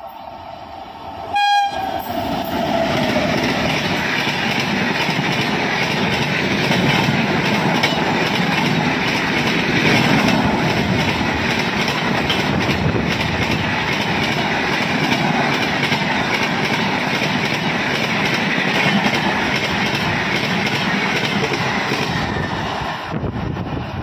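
WAP-7 electric locomotive blowing its horn as it passes at speed, the horn's pitch dropping as it goes by, followed by a long run of express coaches rushing past with rhythmic wheel clatter over the rail joints. The sound cuts off abruptly near the end.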